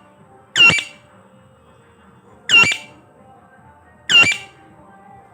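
A parrot giving three short, harsh squawks, about one every second and a half to two seconds.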